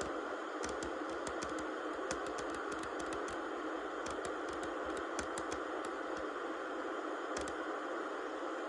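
Steady white noise, with a quick run of light clicks or taps over it for the first half and one more click near the end.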